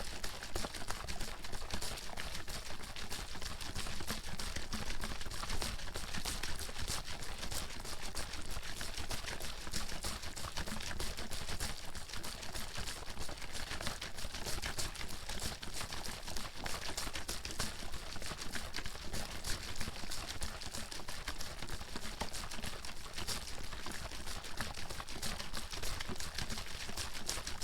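Water bottle being shaken without pause, the water sloshing and slapping inside in a rapid, even clatter.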